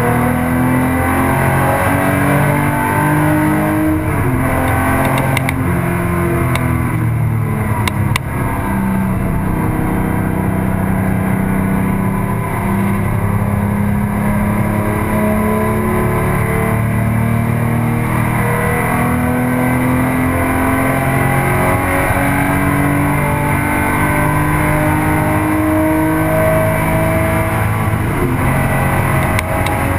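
Porsche 911 flat-six engine heard from inside the cabin while lapping a race track, its pitch climbing under acceleration and dropping back at each gear change, over steady road and wind noise. A brief dip in the engine sound with a few clicks comes about eight seconds in.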